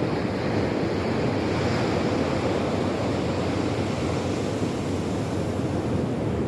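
Sea surf: a steady rush of waves, with wind rumbling on the microphone.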